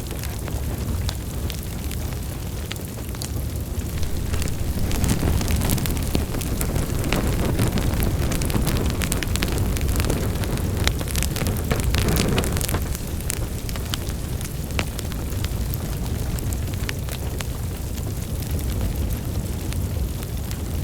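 Wood fire burning in a fireplace: a steady low roar of flames with irregular crackles and sharp pops of burning logs, busiest in the middle.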